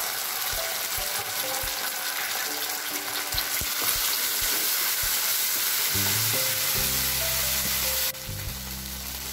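Chopped garlic, onion and ketchup sizzling in hot oil in a non-stick frying pan while a spatula stirs through it. The sizzle drops off suddenly about eight seconds in, and a steady low hum is heard from about six seconds in.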